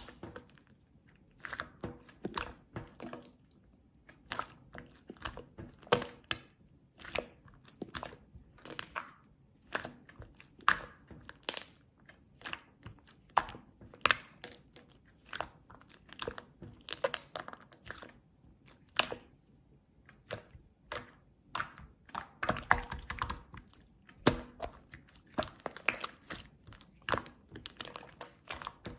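Chewy slime being squished and stretched by hand, making irregular sticky pops and clicks a few times a second.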